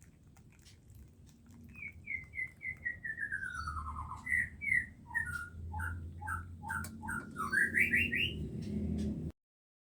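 A songbird singing a run of clear whistled notes that falls in pitch, then quick short notes, then a few rising notes. The sound cuts off suddenly near the end.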